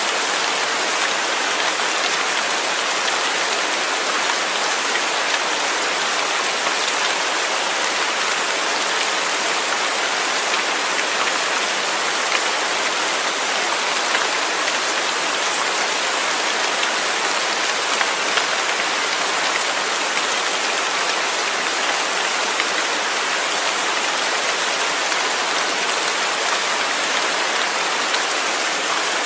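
Steady rain falling, a dense even hiss of drops striking a surface.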